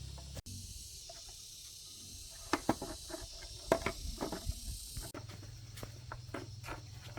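A run of irregular sharp clicks and taps over a low background hum, loudest about two and a half to four seconds in.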